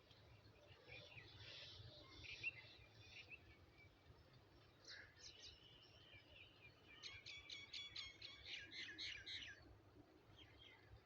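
Faint bird chirps over a low background hum, with a quick run of repeated chirps a little past the middle.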